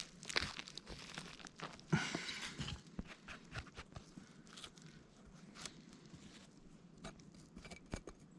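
Crunching and rustling in forest-floor litter, with scattered small snaps: footsteps and hands moving through wet leaves and pine needles. The loudest rustling comes about two seconds in.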